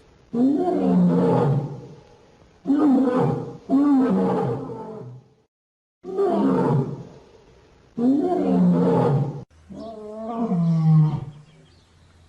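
Lion roaring, a series of about six loud calls with short pauses between them.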